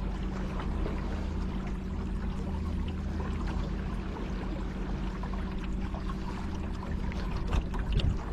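Battery-powered electric motor on a kayak humming steadily, with water splashing and trickling along the hull. Louder bumps come in near the end.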